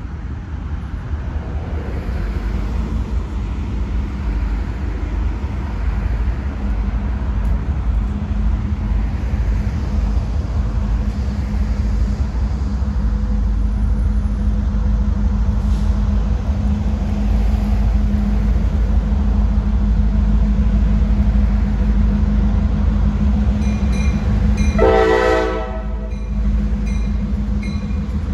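Diesel train running, a heavy low rumble with a steady engine tone that slowly grows louder. Near the end it sounds one short blast of its chime horn.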